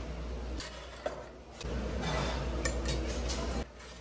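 Dishes and cutlery clattering during a meal, with a few sharp clinks over background noise.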